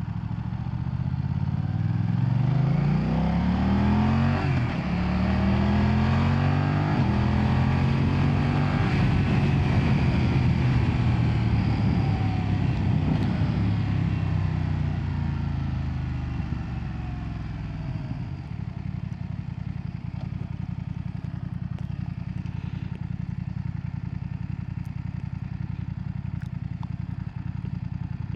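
2025 BMW F900R's 895cc parallel-twin engine accelerating, its pitch climbing, dropping at a gear change about four and a half seconds in, then climbing again. It then winds down over several seconds and settles to a steady low run for the last ten seconds.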